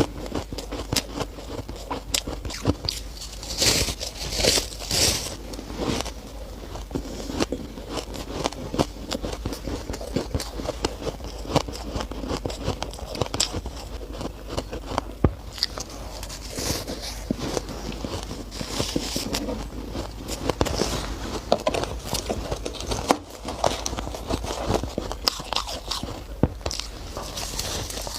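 Close-up bites and chewing of shaved ice, a dense run of crunching and crackling with squeaky grinding as the ice is chewed, and now and then a louder crunching bite.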